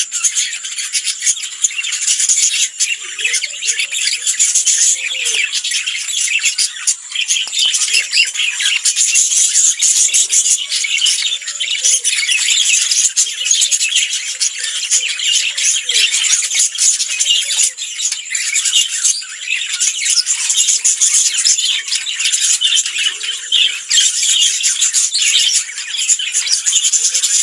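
Lovebirds chattering and squawking nonstop in a dense, high-pitched stream of rapid calls.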